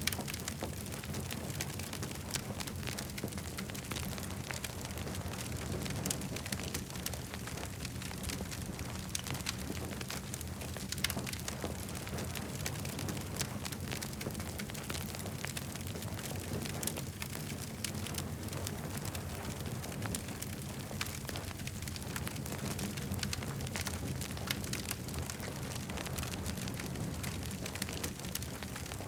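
Campfire burning, with frequent sharp crackles and pops over a steady low rumble.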